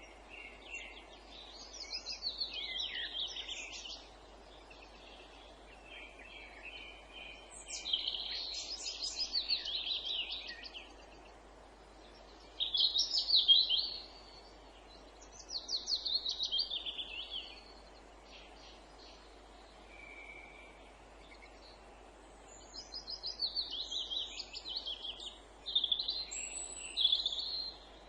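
A songbird singing in short separate phrases of quick repeated high notes, each lasting a couple of seconds with pauses between, over a faint steady background hiss.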